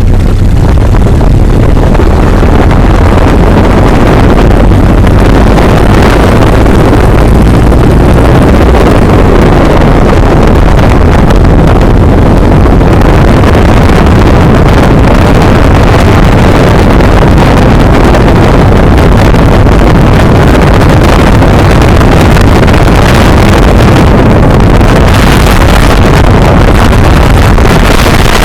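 A 1911 Ford Model T's four-cylinder engine running hard through a quarter-mile acceleration run, with heavy wind noise on the microphone. The wind hiss grows brighter near the end.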